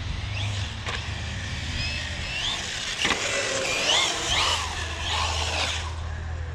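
Electric motor of a radio-controlled car whining, its pitch rising and falling repeatedly as the car speeds up and slows. There is a sharp knock about three seconds in.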